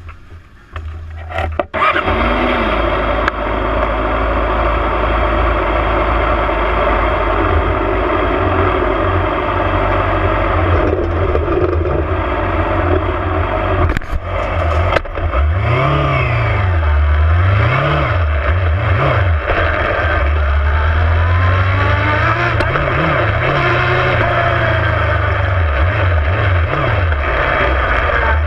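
Superbike engine heard through an onboard GoPro, with a heavy low rumble underneath. About two seconds in it jumps from quiet to loud. From about halfway the revs rise and fall again and again through gear changes.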